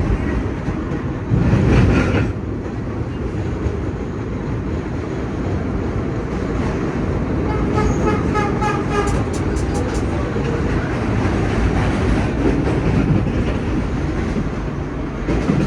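Vintage subway train running on the rails, heard from the rear cab: a steady loud rumble with a brief surge near the start and a short run of rapid pulsing tones and clicks about eight seconds in.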